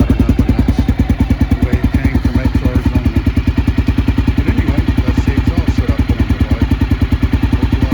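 Honda XR650L's single-cylinder four-stroke engine idling steadily through an aftermarket Big Gun header and XR's Only muffler, its carburettor jetted to suit. The exhaust beats evenly at about eleven pulses a second.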